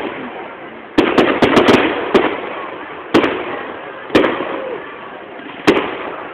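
Aerial fireworks bursting: a sharp bang about a second in followed by a quick run of cracks, then single bangs spaced a second or so apart, each one echoing away.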